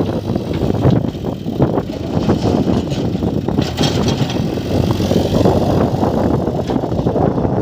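A backhoe loader's diesel engine running steadily under work, with scattered knocks and a short hiss about halfway through.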